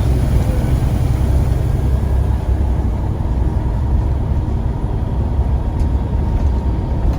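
Scania CN94UA single-deck bus running, a steady low rumble with a faint steady high tone above it.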